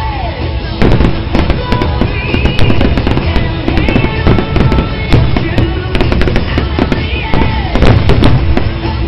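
Fireworks going off in rapid, repeated bangs and crackles, starting about a second in, over loud music played for the display.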